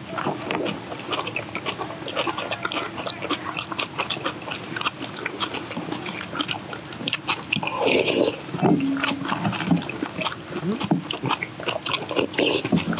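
Close-up eating sounds of several people crunching and chewing cabbage and leaf mustard kimchi with rice, a rapid run of short crisp crunches and clicks, with chopsticks tapping against metal rice bowls.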